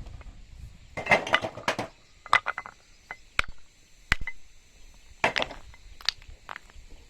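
Irregular sharp knocks and clinks of hard objects striking one another, in several short clusters.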